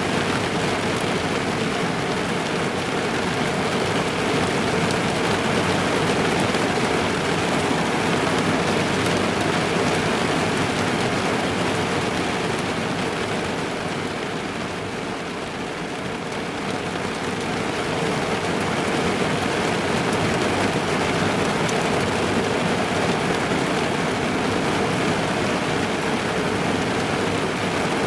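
Rain falling steadily on a car's roof and windows, heard from inside the car, easing slightly about halfway through.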